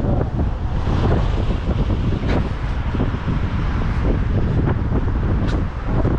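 Wind buffeting the action camera's microphone as a heavy, fluttering low rumble over city street noise, with a couple of short sharp clicks.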